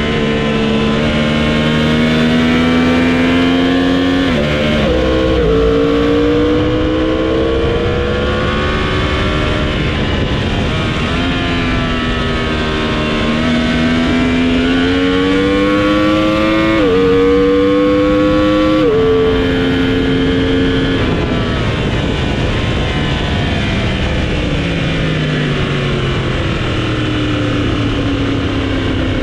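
Motorcycle engine at speed on a racetrack, heard from on board: it accelerates with rising pitch, drops sharply at two gear changes, then winds down steadily as the bike slows, with rushing air noise throughout.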